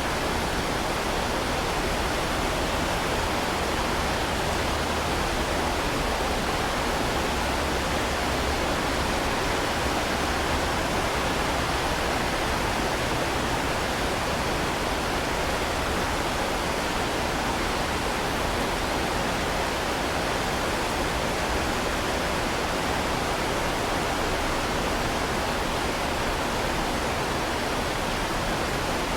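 Heavy rain falling in a steady, even hiss, with no single drops, thunder or other events standing out.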